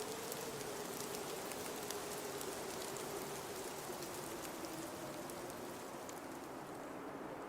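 Blizzard wind howling, its whistle slowly falling in pitch over a steady hiss of blowing snow, with faint scattered ticks.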